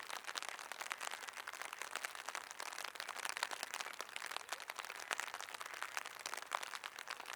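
Rain pattering: many separate drop hits over a steady hiss.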